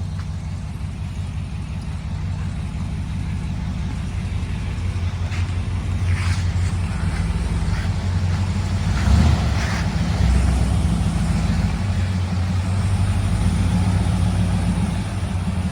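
Engine of a 1966 Chevy C10 pickup running with a steady low rumble, getting somewhat louder about nine seconds in.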